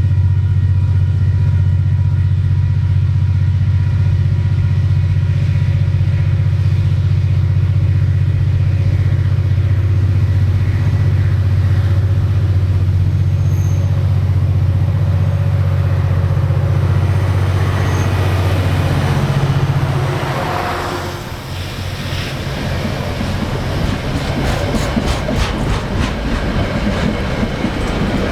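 Freight train passing: a diesel locomotive's loud, steady engine drone for about twenty seconds, dropping away as the locomotive goes by, then the wagons rolling past with a rhythmic clickety-clack of wheels over rail joints near the end.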